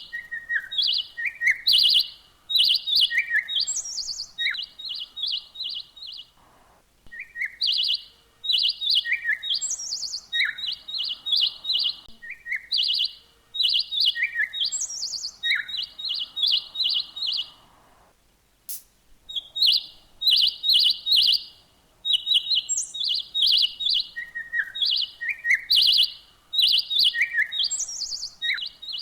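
Small songbirds chirping: quick runs of high chirps mixed with short falling whistled notes, the same phrase repeating every few seconds, with a brief pause about two-thirds of the way through.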